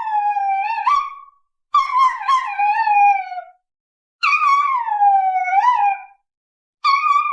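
A dog howling: long drawn-out calls, each sliding down in pitch with a small lift at the end. One call ends about a second in, two more follow with short breaks, and a fourth starts near the end.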